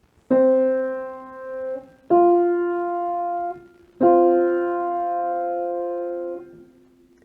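Piano tone playing an ear-training interval, a major third: a lower note, then a higher note about two seconds later, then both notes struck together and held for about two and a half seconds.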